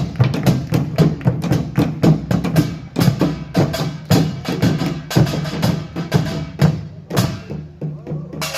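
Korean pungmul percussion ensemble of drums and gongs playing a fast, dense rhythm of sharp strikes, thinning out briefly about seven seconds in.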